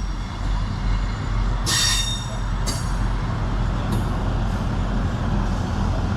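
Class 158 diesel multiple unit at the platform, its diesel engines giving a steady low drone, with three short high-pitched metallic squeals from the train about two, three and four seconds in.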